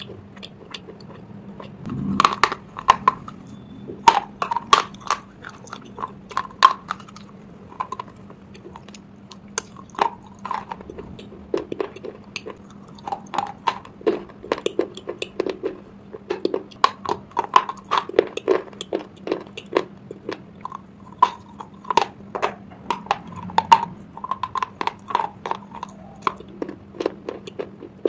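Close-up chewing of slate pencil pieces in the mouth: a dense, irregular run of sharp crunches and crackles as the hard chalky pieces are ground between the teeth.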